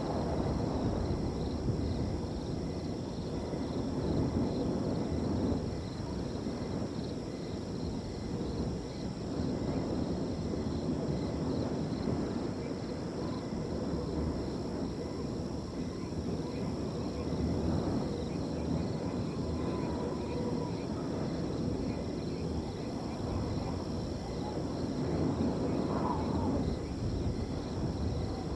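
Wind blowing in gusts that swell and ease, with crickets trilling steadily and evenly behind it. A few faint short calls come in near the end.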